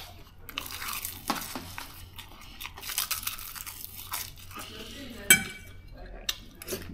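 Close-up chewing of a mouthful of salmon and tomato, wet and open-mouthed, with irregular crunchy smacking. About five seconds in, a fork clinks once sharply against the ceramic plate.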